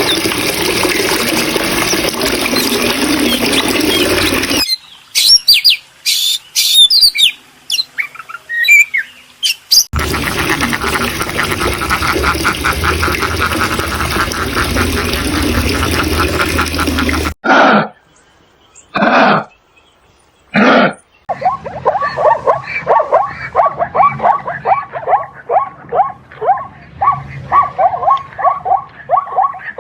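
Farm animal and bird calls in a series of short clips that cut abruptly from one to the next; the last is a fast run of short repeated calls, about three a second.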